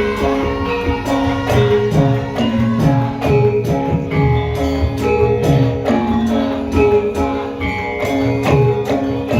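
Javanese gamelan music accompanying lengger dancing: sustained struck melody notes over a steady rhythm of drum strokes whose pitch drops with each hit.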